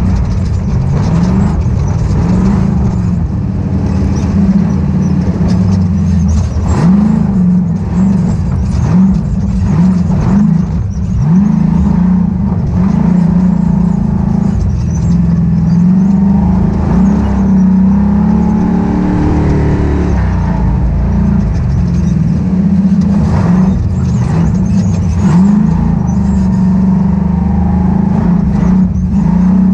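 Ultra4 off-road race car's engine running hard, its pitch climbing and dropping again and again as the throttle is worked over rough terrain, with scattered knocks and rattles from the chassis.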